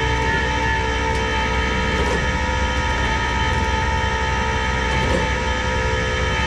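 Tow truck's engine held at raised revs to drive the hydraulics while a pickup is pulled onto the bed: a steady mechanical drone with a high whine over it.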